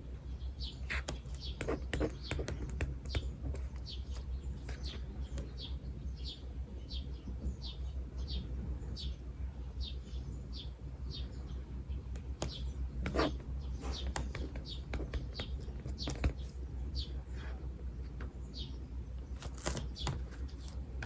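A small bird chirping over and over, about two short high calls a second, with the scratching and tapping of writing on paper.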